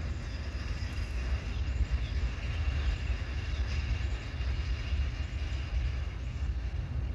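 Freight train cars rolling past, a steady low rumble of wheels on the rails with a faint high ringing tone above it.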